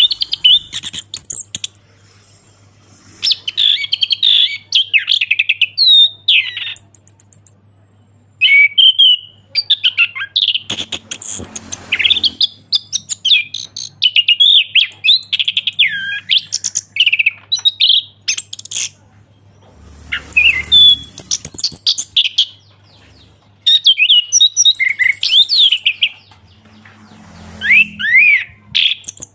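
Orange-headed thrush singing its full 'ngeplong' song: long bursts of rapid, varied whistled phrases with short pauses between them. A faint steady low hum runs underneath.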